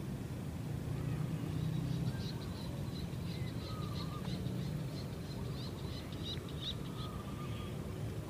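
Small birds chirping in quick runs of short high notes over a steady low hum of outdoor background noise.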